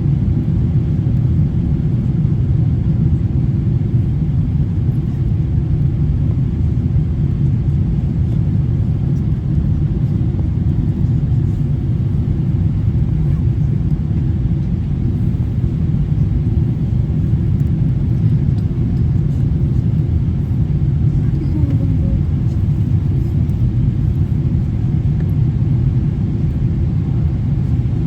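Steady low rumble of a Boeing 777-300ER in flight as heard inside the passenger cabin: engine and airflow noise, unchanging throughout.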